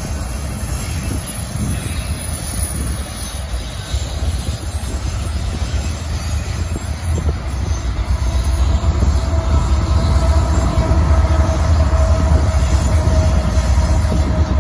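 Freight train of autorack cars rolling steadily past, with a continuous rumble of wheels on rail. From about eight seconds in it grows louder and deeper, with a faint steady whine, as the diesel locomotives come by.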